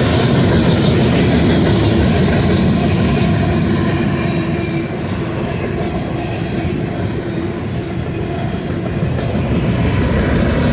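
Freight train cars rolling past close by, a steady rumble of wheels on rail with some clacking. The upper hiss eases off for a few seconds in the middle and then returns.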